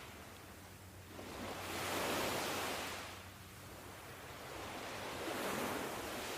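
Ocean surf washing in, in slow swells. One wave rises to its loudest about two seconds in and fades away, and another builds near the end.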